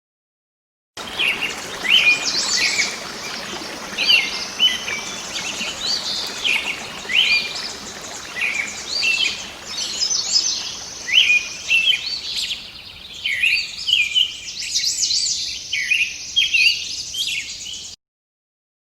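Bird-chirping sound effect: quick, repeated chirps and call phrases over a faint background hiss. It starts about a second in and cuts off abruptly near the end.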